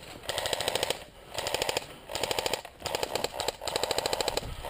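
Airsoft guns firing in short full-auto bursts: about five rapid rattling strings of shots, each under a second long, with brief pauses between them.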